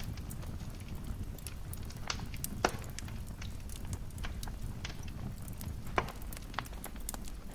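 Wood fire crackling in a fireplace: a steady low rumble of flames under scattered sharp snaps, with two louder pops, one a little under three seconds in and one about six seconds in.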